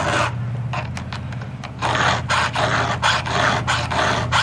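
Hand file rasping across the cutters of a small chainsaw's chain as it is sharpened, in quick strokes about four a second, with a pause from about half a second in before the strokes pick up again near two seconds. A steady low hum runs underneath.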